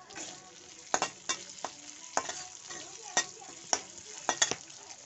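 Sliced onions and capsicum sizzling in hot oil in a kadai, stirred with a utensil that knocks and scrapes against the pan in about eight sharp clicks.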